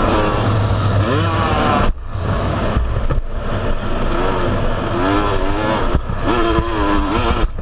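Yamaha YZ250 single-cylinder two-stroke motocross engine revving up and down in repeated rising and falling runs as the throttle is worked. The throttle is chopped sharply about two seconds in and again near the end.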